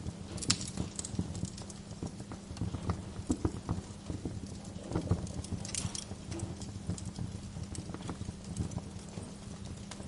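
Wood fire crackling in a fireplace: a dense, irregular run of small crackles with sharper pops, the loudest about half a second in and again around six seconds, over a steady low hum.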